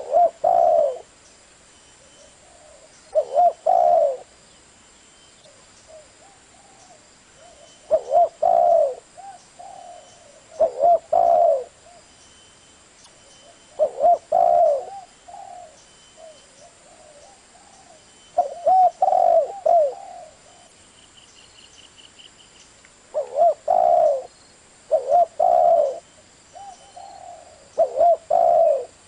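Spotted dove cooing: repeated phrases of several low, mellow coo notes, one phrase every three to five seconds.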